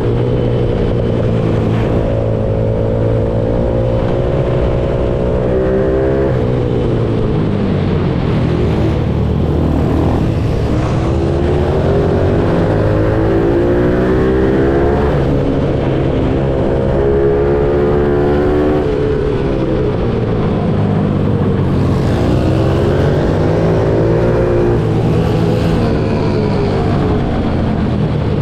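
Pitbike engine being ridden hard on a track, revving up and dropping back again and again as it accelerates and then slows for corners. The pitch climbs over a few seconds each time, then falls away, about five times.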